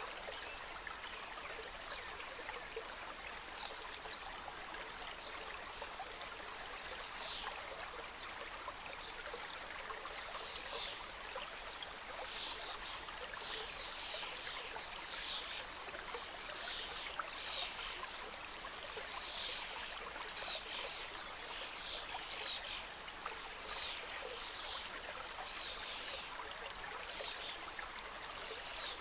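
Small mountain stream flowing and splashing over rocks, a steady rush of water. From about a quarter of the way in, birds sing in the background, many short high descending notes that come thicker toward the end.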